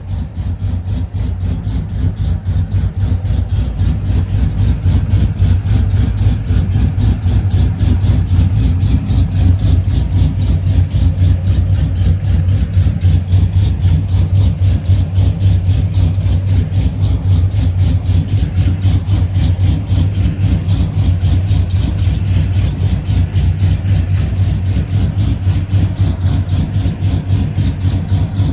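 Cammed LS2 V8 running at a steady idle through a header-back true dual exhaust with X-pipe, its exhaust note pulsing rhythmically.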